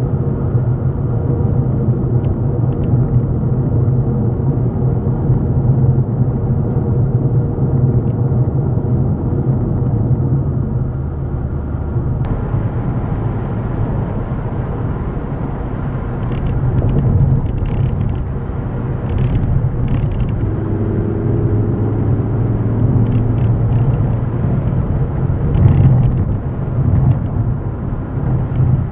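Steady low rumble of a running vehicle, with faint short higher sounds over it in the second half.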